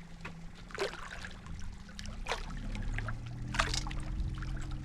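Water splashing and trickling as a hooked bull shark is held at the surface beside the boat, with a few sharper splashes about a second, two seconds and three and a half seconds in, over a low steady hum.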